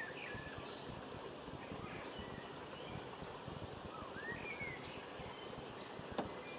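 Faint outdoor ambience: a steady hiss with a few short, sweeping bird chirps, and a single click about six seconds in.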